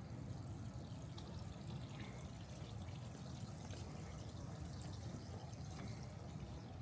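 Steady outdoor background noise: a low rumble with a thin, high steady tone over it and a few faint clicks.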